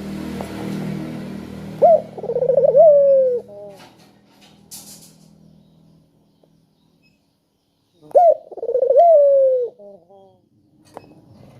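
Puter (Barbary ringneck dove) cooing twice, about six seconds apart: each call is a short rising note, a rolling trill and a long falling coo. A low steady hum lies under the first few seconds.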